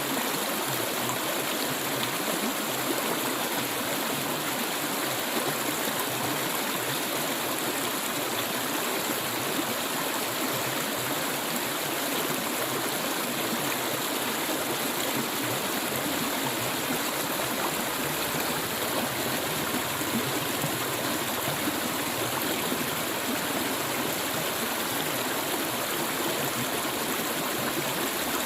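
Clear stream water flowing and rushing steadily over rocks, an even, unbroken sound.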